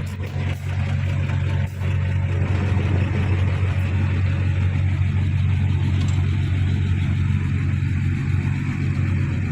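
A heavy diesel engine running steadily at constant speed, with a few short clatters in the first couple of seconds.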